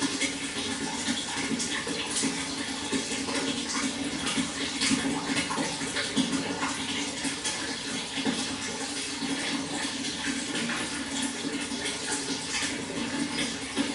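Water flowing and splashing steadily: a continuous rush dotted with many small, irregular splashes.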